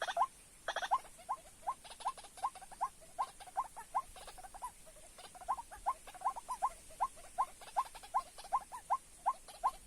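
White-breasted waterhen calling: a long run of short, rising notes repeated about three times a second, with a quick burst of stacked notes about a second in.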